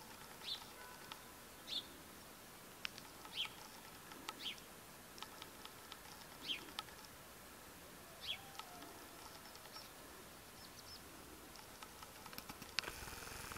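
Songbirds chirping faintly in open country: short high chirps every second or two, with a few light clicks between them.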